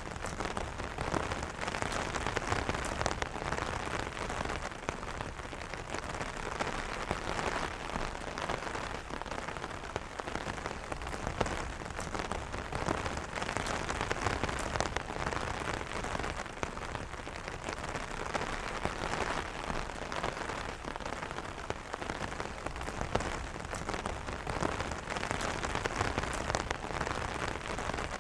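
Steady rain pattering on an umbrella's fabric canopy: a dense hiss of many small drop ticks, with no thunder.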